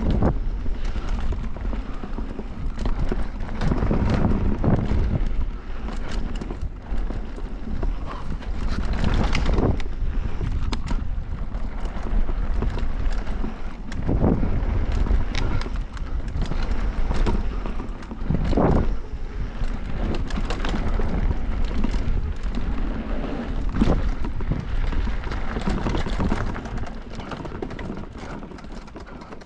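Mountain bike descending a rough downhill trail at speed: wind rushing over the microphone, tyres rumbling, and the frame and chain rattling and knocking over bumps. The noise eases off near the end.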